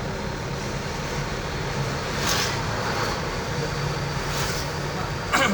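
Truck engine running steadily on the move, with short hisses about two and four seconds in and a brief loud sound near the end that falls sharply in pitch.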